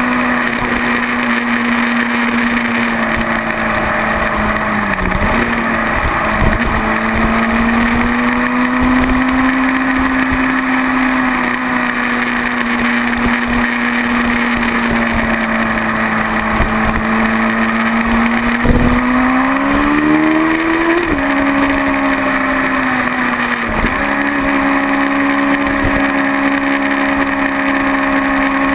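Motorcycle engine running at steady freeway speed with wind and road noise. Its pitch dips briefly a few times as the throttle is eased, and climbs about two-thirds of the way through before dropping back abruptly.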